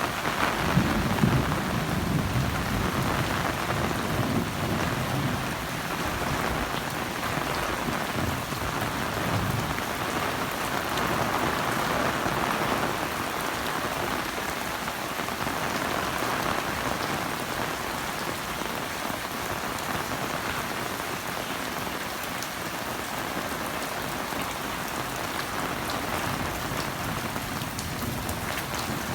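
Heavy rain falling steadily in a strong storm, with a low rumble underneath through roughly the first third.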